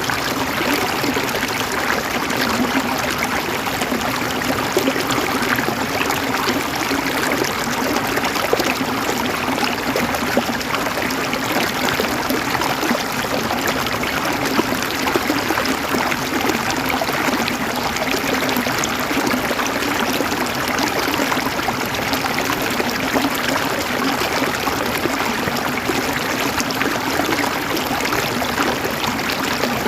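River water flowing steadily over rocks, a dense, even rush with small splashes and gurgles throughout.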